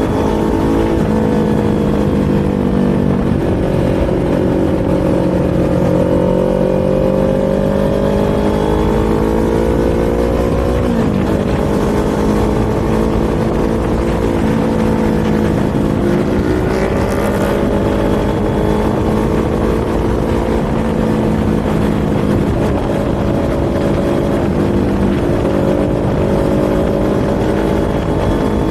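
Kawasaki Z400 parallel-twin engine and exhaust under way, the pitch slowly climbing and easing with the throttle. It drops sharply about eleven seconds in and again about sixteen seconds in, as at a gear change.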